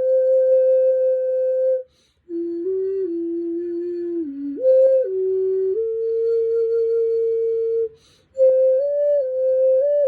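Seven-hole xun in F, a Chinese vessel flute, played solo with no accompaniment: a slow melody of long, steady held notes, with two short breath pauses about two seconds and eight seconds in.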